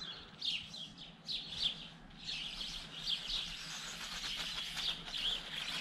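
Small birds chirping: a string of short, high chirps repeating throughout.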